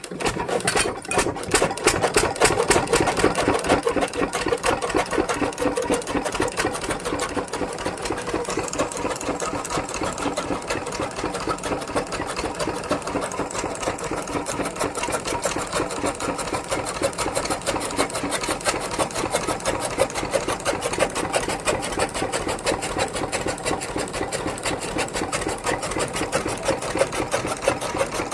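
Stationary farm diesel engine running steadily with a rapid, even knocking beat. It is a little louder in the first few seconds, then settles.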